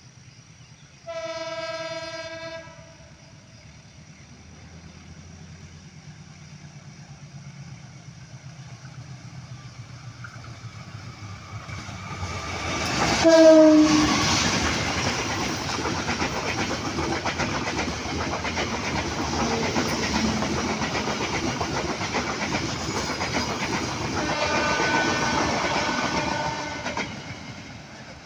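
A train's horn sounds for about a second and a half, then a locomotive-hauled ballast train approaches and passes close by, with a short horn blast whose pitch drops slightly as the locomotive goes past. The rumble and clatter of the wagons follow, another horn sounds a few seconds before the end, and the noise fades.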